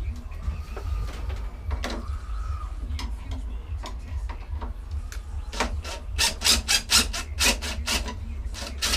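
Hand tools working on the fittings of a lawnmower's handle controls: scattered clicks and metal rubbing, a brief squeak about a second in, then a quick run of sharp scraping strokes, several a second, over the last few seconds.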